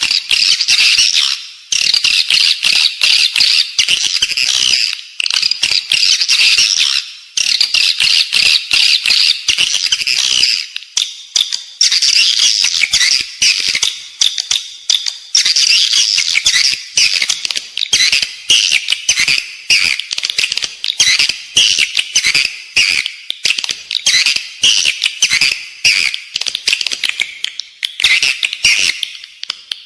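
Edible-nest swiftlet calls: dense, continuous high twittering chirps mixed with rapid clicks, broken by brief pauses. This is a lure call track played inside a swiftlet nesting building to draw the birds in.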